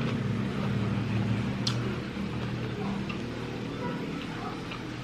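A steady low mechanical hum that fades slightly, with a few faint clicks over it.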